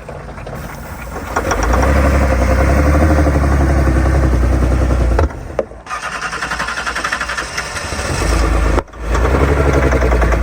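2004 Ford Taurus engine with dish soap in its crankcase in place of oil, turning over in pulsing stretches like a starter cranking it, with two abrupt breaks. The engine is failing from the lack of lubrication.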